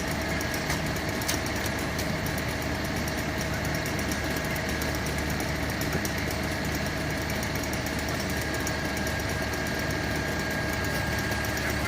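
A fire truck's diesel engine idling steadily, with a faint steady high tone over it.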